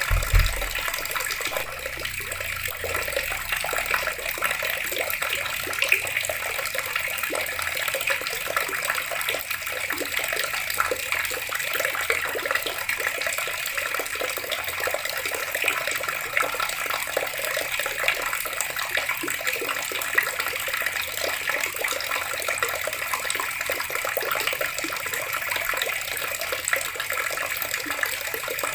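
Water running steadily from a tap, with a fine splashing spatter, and a brief low thump at the very start.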